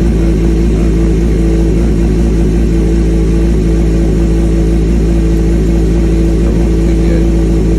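2003 Suzuki GSX-R750's inline four-cylinder engine idling steadily at an even speed, just after fresh oil and new spark plugs.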